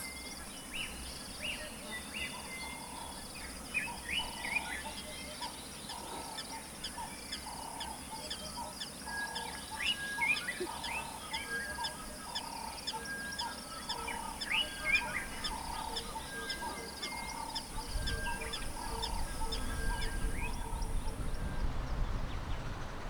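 Several wild birds calling, with many short, repeated high chirps and a run of lower repeated notes, over a steady high-pitched buzz that cuts off near the end. A low rumble comes up over the last few seconds.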